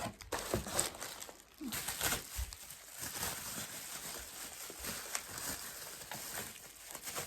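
Soft rustling and scattered light clicks and knocks as packaging and small items are handled.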